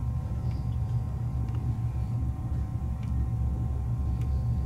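Passenger train running at speed, heard from inside the carriage: a steady low rumble with a faint steady whine over it and a few light clicks.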